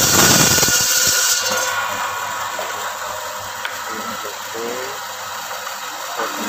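Electric table bone saw with a 1.1 kW motor. Its blade cuts harshly through bone for the first second and a half, then runs on more quietly.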